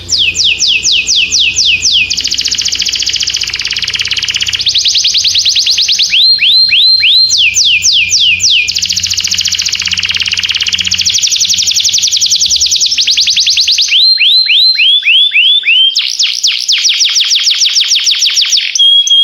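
Domestic canary singing a loud song built of fast trills. Each trill is a rapid run of the same whistled note sweeping downward, repeated many times, and the bird switches from one trill to another every second or two. A brief steady whistle comes near the end.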